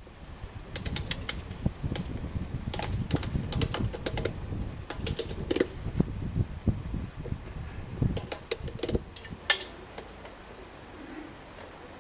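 Irregular sharp clicks and clatters in quick runs over a low rumble, dying away about ten seconds in.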